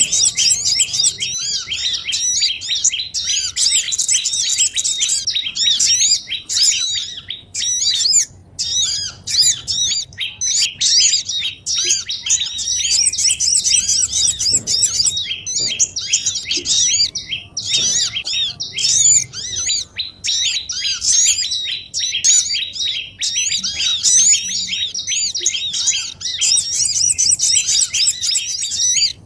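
A dense, continuous chorus of many small songbirds twittering and chirping over one another, high-pitched, with only a brief lull about eight seconds in. It is a bird-lure recording of noisy small birds, played to draw small wild birds such as sunbirds and tailorbirds down to a trap.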